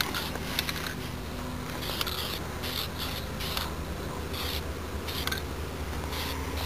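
Aerosol spray-paint can hissing in a series of short bursts, about a dozen in all, each lasting well under a second, as a first coat of paint goes on.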